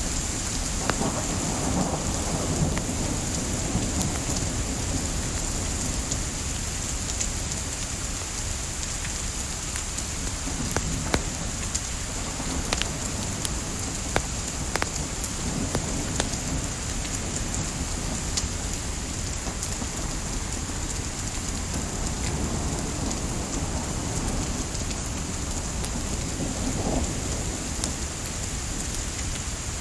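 Steady hiss of light rain with scattered sharp crackles and pops of burning wood, over a low rumble that swells a few times.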